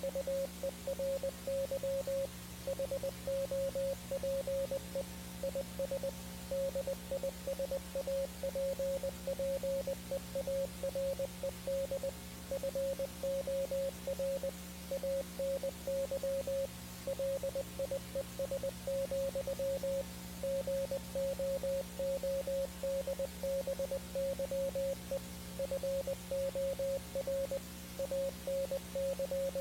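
Morse code tone keying out dots and dashes in an irregular on-off pattern, over a steady electrical hum and static hiss.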